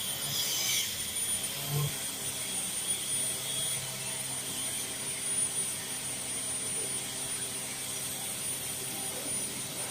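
An engine running steadily at a constant speed and even pitch, with a steady hiss over it.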